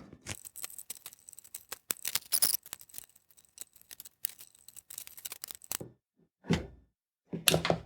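Rapid small clicks and scrapes of a metal scalpel-shaped pry tool working at the plastic seam of a Dyson vacuum battery pack to force the case open, with a sharper, brighter scrape about two and a half seconds in; the scraping stops about six seconds in.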